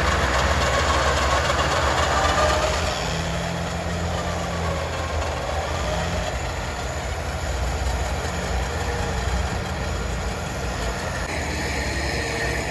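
Vehicle engines and winches running steadily during a winch recovery of a bogged Pinzgauer 6x6. A steady low engine hum sits under dense mechanical noise, with a faint wavering whine in the first few seconds.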